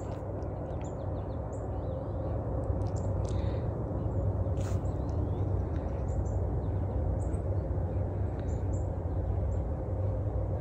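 Birds chirping outdoors, many short high calls scattered throughout, over a steady low rumble.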